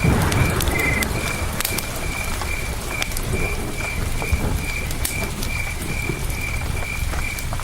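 Campfire crackling with scattered sharp pops over the steady rush of a river, while a cricket chirps in an even rhythm about twice a second. A swell of louder crackle and rush comes right at the start.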